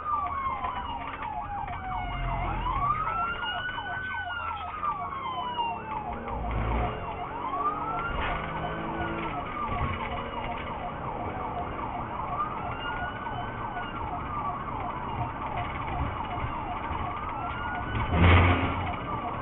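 Police car siren in pursuit, wailing up and down about every four seconds over a second, rapidly repeating yelp tone. A short loud thump comes about 18 seconds in.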